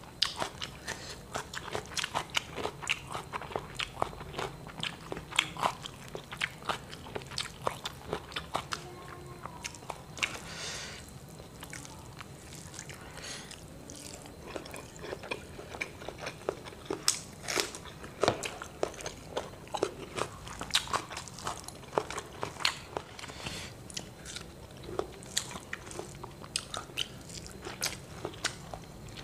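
A person chewing and smacking while eating crisp fried tilapia and rice by hand: an uneven run of short wet clicks and crunches.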